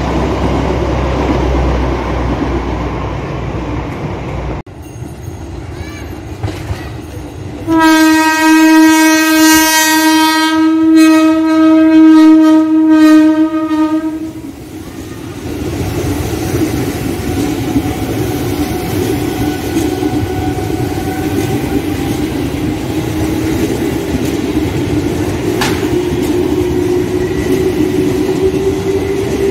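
Passenger coaches rolling past on the track. Then a train horn sounds one long single-tone blast of about six seconds. After it, a JR 205-series electric commuter train rolls by with a steady rumble and a faint motor whine that rises in pitch near the end.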